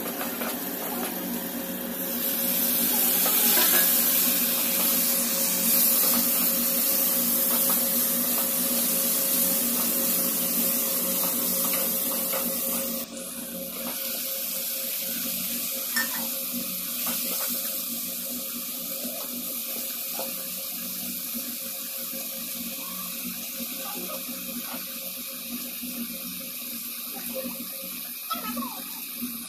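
Onions and ginger-garlic paste sizzling in hot oil in a wok as a spatula stirs them. The sizzle swells about two seconds in and drops sharply about halfway through. After that, marinated mutton pieces fry more quietly, with scattered spatula scrapes and knocks against the pan.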